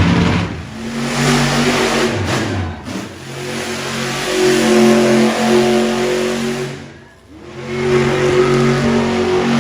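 Monster truck engine revving hard under changing throttle, its pitch stepping up and down. The sound drops away briefly a few times, most deeply about seven seconds in, then picks up again.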